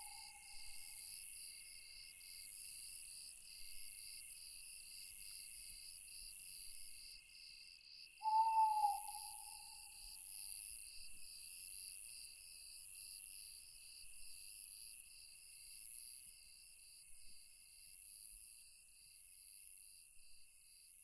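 Night insects chirping in a steady chorus that pulses a few times a second, with a single owl hoot about eight seconds in.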